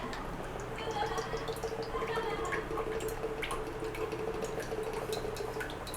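Cooking oil for deep-frying going into a pan on a lit gas stove: a faint trickle with many small scattered ticks, and a faint steady tone from about a second in until near the end.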